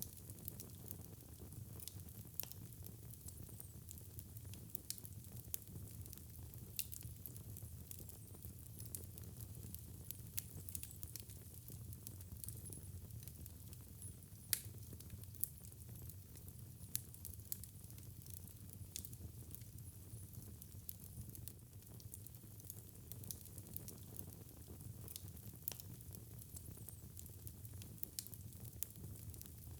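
Wood fire crackling in a fireplace: frequent sharp pops and snaps over a low, steady rumble of burning, with one louder pop about halfway through.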